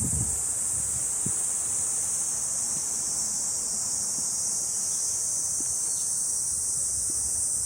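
A steady, high-pitched chorus of summer cicadas that does not let up, with a few faint low thumps of footsteps on the trail.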